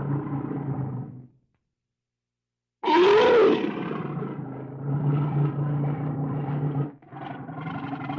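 Bear growling: a low growl fades out, and after a short silence a loud growl starts with a rising-then-falling pitch. It carries on as a long, rough rumble that breaks off briefly near the end and starts again.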